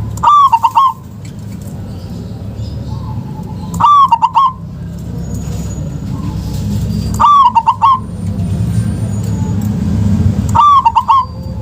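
Zebra dove (perkutut) cooing: a short, rolling phrase sung four times, about every three and a half seconds, over a steady low rumble.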